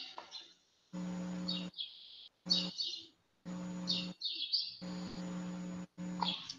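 A bird chirping in short bursts several times, picked up through a call microphone that cuts in and out abruptly and carries a steady low hum.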